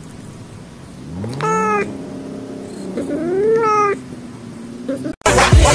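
A domestic cat meowing twice: two drawn-out meows, the second rising and then falling in pitch. Loud music with a beat cuts in suddenly near the end.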